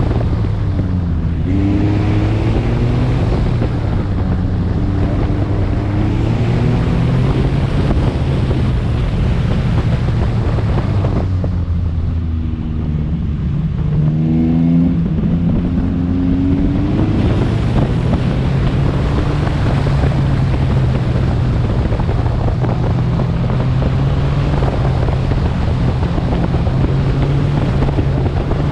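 Car engine being driven hard through an autocross course, its revs rising and falling again and again as the driver accelerates and lifts for corners, with wind buffeting the microphone. After about 17 seconds the engine note settles to a steadier drone.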